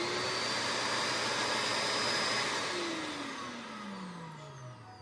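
Buenkee pet grooming vacuum's motor running with a high whine, then winding down from about halfway through, its pitch falling steadily as it slows.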